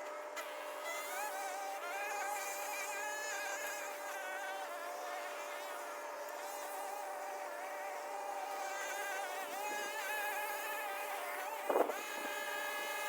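A small motor buzzing at a high pitch that wavers up and down, with a short louder surge near the end.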